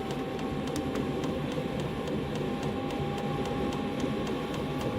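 Chinese diesel air heater running: a steady blower and burner noise with a steady tone, and the fuel dosing pump ticking about four times a second.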